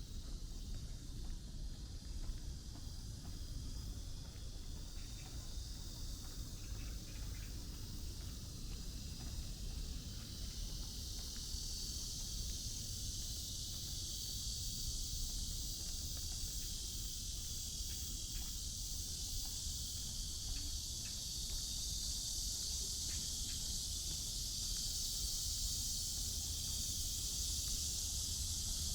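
Steady high-pitched insect chorus that grows louder about ten seconds in, over a low background rumble.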